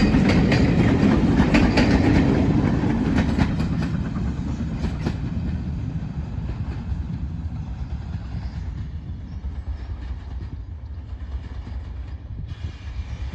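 Steam-hauled train rumbling past with its wheels clicking over rail joints, the sound fading steadily as it draws away.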